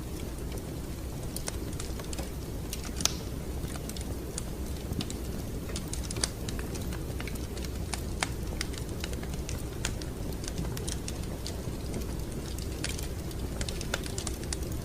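Wood fire in a fireplace crackling: irregular sharp pops and ticks over a steady low rumble, the loudest pop about three seconds in.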